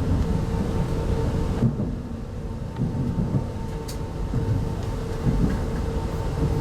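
Running noise heard inside a China Railway 25T passenger coach: a steady low rumble of wheels on track with irregular low knocks, under a constant hum. The higher hiss drops away about a second and a half in.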